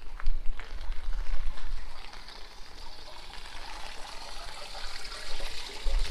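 Rain falling, with scattered drop ticks and a steady rush of running water that grows from about two seconds in. Wind buffets the microphone at the start and again near the end.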